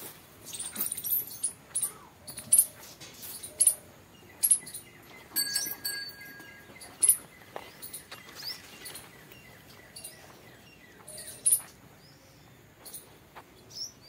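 Small birds chirping in short, high calls scattered throughout, over a quiet open-air background, with a brief steady whistled note near the middle.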